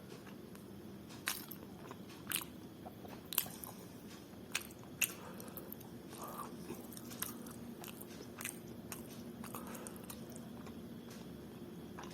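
Close-up eating sounds: chewing and mouth noises of someone eating pulao and mutton curry, with scattered sharp smacks and clicks about once a second over a steady low hum.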